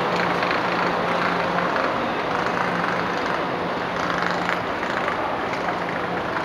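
China Railway high-speed electric train moving along the platform: a steady rush of running noise with a low steady hum underneath.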